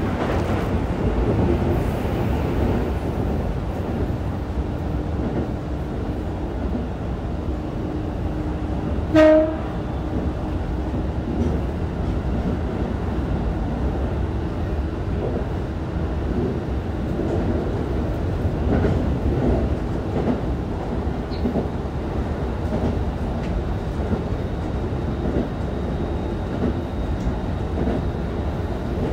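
Running sound of a Keikyu 1000 series electric train with a Toshiba IGBT-VVVF inverter, cruising between stations: a steady rumble of wheels and traction motors with a faint motor tone. A short, loud horn blast sounds about nine seconds in.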